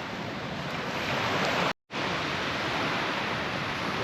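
Steady wash of surf on a sand beach, cutting out to silence for a moment a little under two seconds in.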